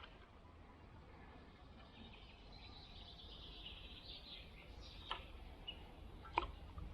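Faint outdoor ambience with birds chirping, and two short sharp clicks in the last two seconds.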